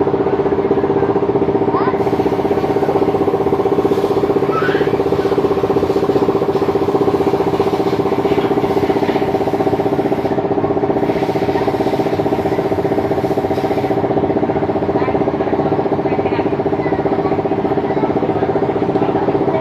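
An engine running steadily at a constant speed, a loud, even drone with a fixed pitch.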